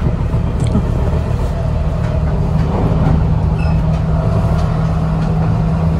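Running noise heard inside the cabin of a moving passenger train: a steady low rumble from the wheels and rails. A steady low hum joins about halfway through and grows stronger.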